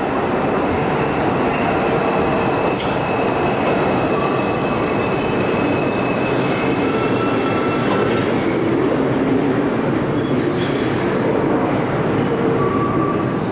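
Bombardier R142 subway train running through the station at steady speed, with rail noise throughout and intermittent high-pitched wheel squeal.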